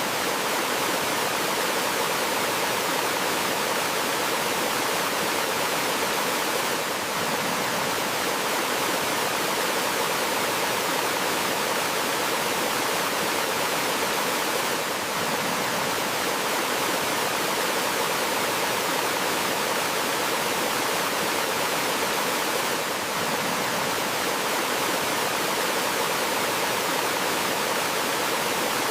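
Steady rush of flowing water from a small forest waterfall and stream, an even hiss with slight dips about every eight seconds.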